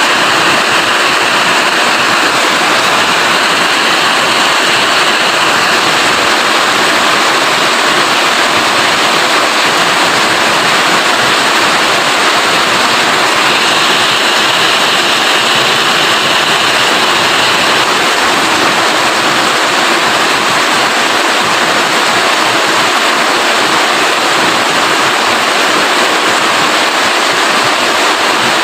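Steady rain falling, a dense, even hiss with no single drops or other events standing out.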